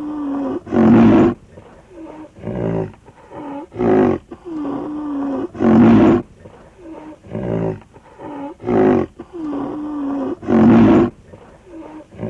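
A large wild animal's loud, hoarse calls, each followed by a lower drawn-out moan that bends in pitch. The same sequence repeats about every five seconds, like a looped sound effect.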